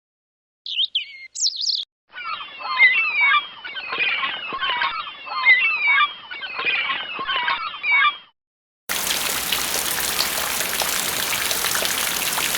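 A run of separate stock sound effects: a few short sliding chirps, then about six seconds of dense bird-like chirping, and after a short gap a steady, even hiss.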